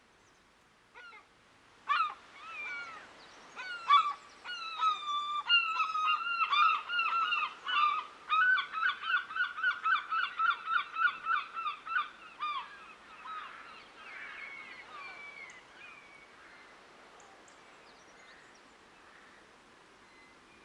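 A flock of waterbirds calling outdoors in a run of loud, repeated calls. The calls start scattered about two seconds in, crowd into a quick regular series of about three a second, and then thin out and fade after about twelve seconds.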